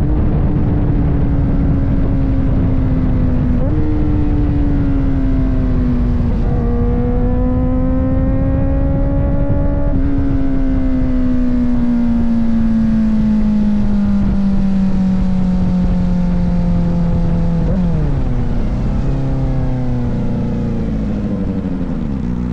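Kawasaki ZX-4RR's 399 cc inline-four engine running under way, its note steady but drifting slowly, stepping up twice. It falls off sharply about 18 seconds in and again near the end as the bike slows, over low wind rumble.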